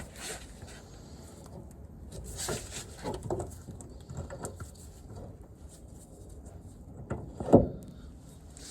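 Scattered clicks and knocks of metal car parts and tools being handled while a wheel hub is reassembled, with one sharp, loud knock near the end.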